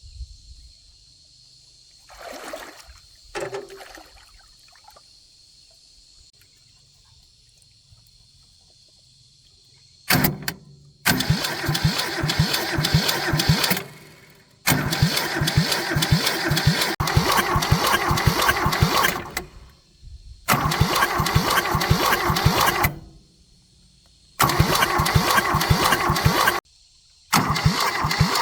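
Tractor engine being cranked in repeated attempts to start it, about six bursts of pulsing cranking, each two to five seconds long and cut off abruptly, without the engine running on. The first ten seconds are quiet apart from two brief faint sounds.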